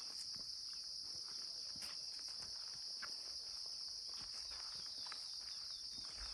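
Steady high-pitched drone of insects, with soft footsteps on a path.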